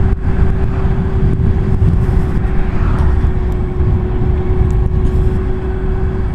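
Wind rushing over the microphone of a Zero SR electric motorcycle on the move, over a steady whine from the bike's electric motor that drops a little in pitch near the end; there is no engine note.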